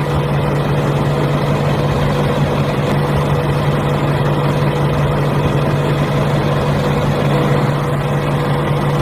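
A motor running steadily with a constant, unchanging hum, like an engine idling.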